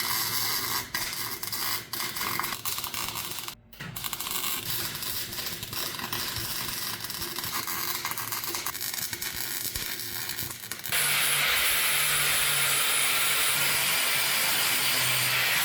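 Welding arc crackling and sizzling in short runs on car body steel, with a brief break about three and a half seconds in. From about eleven seconds a louder, steady rushing noise with a faint whine takes over.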